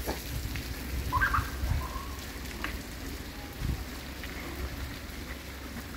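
Light rain pattering on a wet paved street, over a steady low rumble, with a short faint chirp about a second in and a dull thump near the middle.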